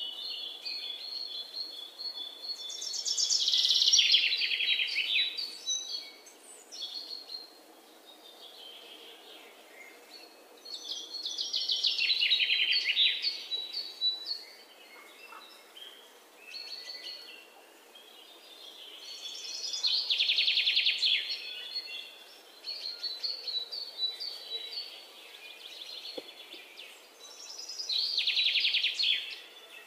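Bird song: a rapid, falling trill about two seconds long, repeated four times roughly every eight seconds, with softer chirps in between.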